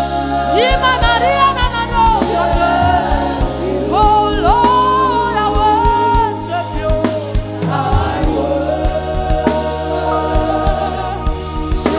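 Live gospel worship music: voices singing long, gliding, held lines over sustained instrumental chords and bass, with drum hits.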